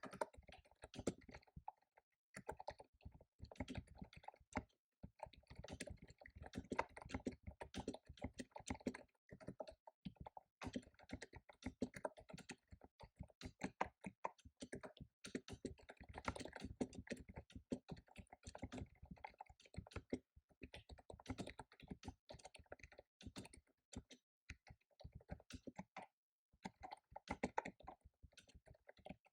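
Fast typing on a computer keyboard: runs of quick key clicks broken by short pauses.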